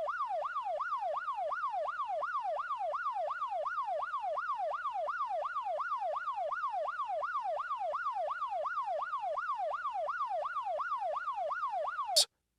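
Police siren on yelp, a fast rising-and-falling wail repeating about two and a half times a second; it cuts off suddenly near the end.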